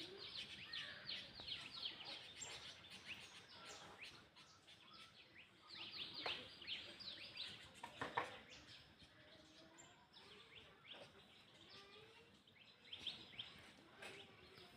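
Songbirds chirping faintly in quick bursts of short, high, downward notes, falling quieter in between, with some soft lower calls.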